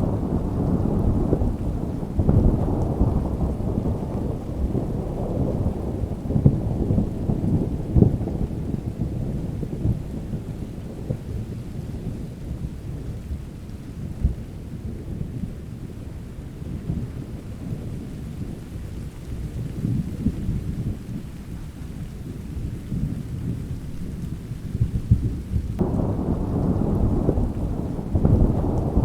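Rolling thunder rumbling over steady rain. The rumble is heaviest in the first several seconds, eases through the middle, and swells up again suddenly near the end.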